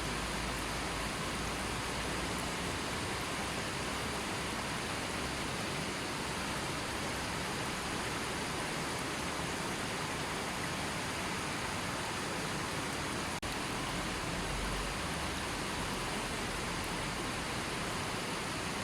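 River water flowing steadily, an even rushing wash of running water with no changes in strength. A brief dropout or click comes about two-thirds of the way through.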